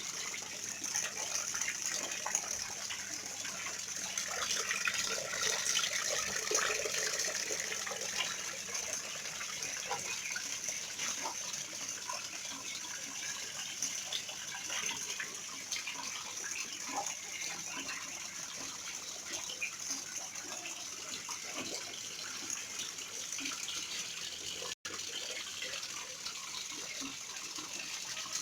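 Steady splashing of water falling in a small electric-pump decorative waterfall, with rain falling. The sound drops out briefly near the end.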